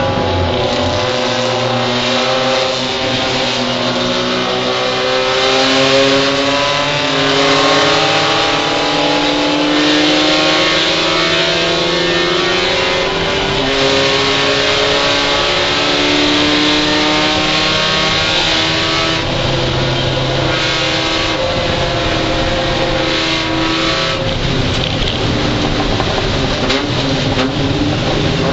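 Mazda Miata race car's four-cylinder engine heard from inside the cockpit, pulling hard with its pitch climbing and then dropping at upshifts several times over, under a steady hiss of road and tyre noise.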